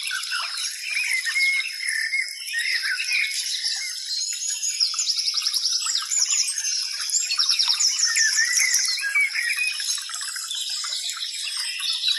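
Many birds singing and calling at once: a dense mix of short chirps and rapid trills, with a steady high tone running underneath.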